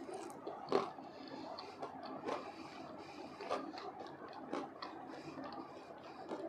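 Close-up chewing of crispy fried potato pieces in chili sauce: steady crunching and wet mouth sounds, with a sharper crunch about every second.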